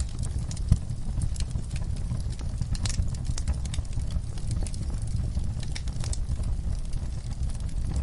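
Wood fire crackling in a fireplace: scattered sharp pops and snaps over a steady low rumble, with one louder pop just under a second in.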